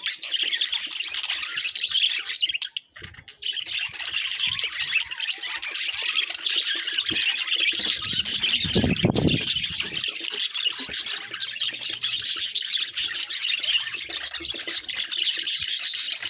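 Budgerigars chattering and chirping continuously, as a flock. About nine seconds in, a brief low rumble sounds under the chatter.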